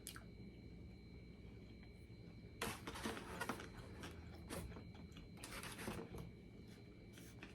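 Faint eating sounds: chewing, with a few short crackly, smacking clicks clustered in the middle of the stretch over a low room hum.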